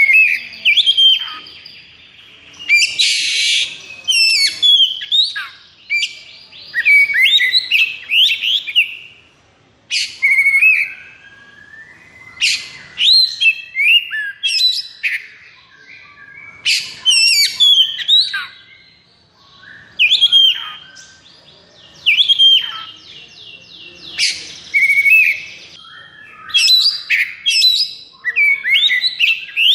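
Oriental magpie-robin (kacer) singing in its excited, aggressive 'konslet' style. It pours out loud bursts of varied whistled phrases mixed with fast trills and buzzy rattles, each burst a second or two long, with short pauses between them.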